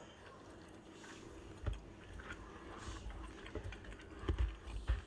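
A man chewing a bite of grilled chuck steak: faint wet clicks of the mouth with a few soft low thumps, one about a second and a half in and a couple near the end.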